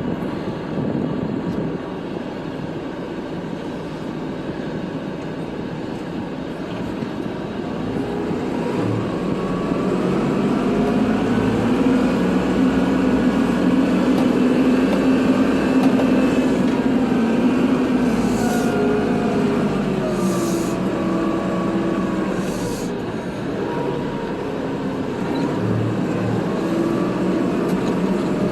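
Kubota tractor's diesel engine running while plowing snow. Its note climbs about a third of the way in, holds, dips near the three-quarter mark, then climbs again.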